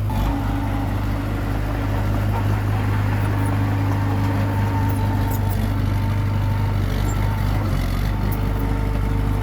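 Komatsu D21P bulldozer's diesel engine running steadily under work, with a constant low hum.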